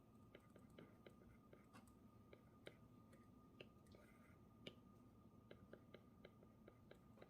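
Near silence: room tone with faint, irregular small clicks, a few a second, over a faint steady high-pitched hum.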